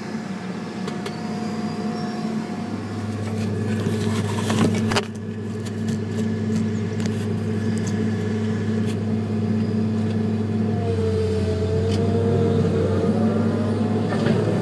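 Heavy diesel earthmoving machinery running steadily as a Cat 325 excavator loads a Terex TS14 scraper, getting gradually louder. A clatter of sharp knocks comes about four to five seconds in, and a wavering whine joins the engine drone near the end.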